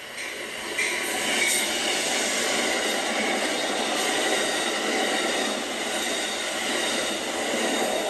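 Amtrak train led by a P42DC diesel locomotive passing close by. Steady loud rush of wheels on rail builds up over the first second, with faint thin high-pitched tones from the wheels over it.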